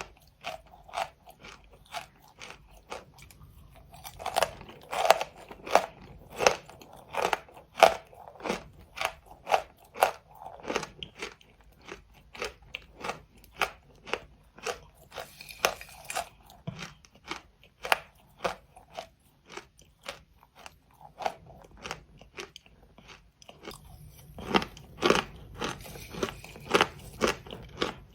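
Close-miked crunchy chewing of chalk, a sharp crunch about twice a second, with louder bursts of bites twice.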